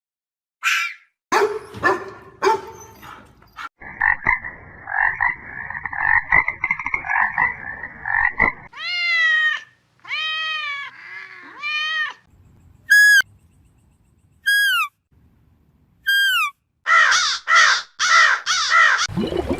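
A series of different animal calls: short calls, then a rapid croaking chatter for several seconds, three arching calls, three short falling whistles, and a quick run of calls near the end.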